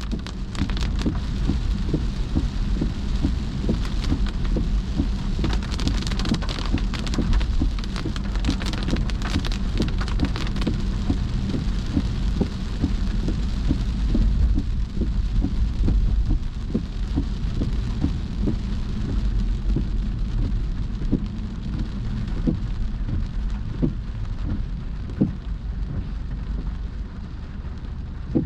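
Heavy rain falling, a dense patter of drops over a steady low rumble; the rain is heaviest in the first ten seconds or so.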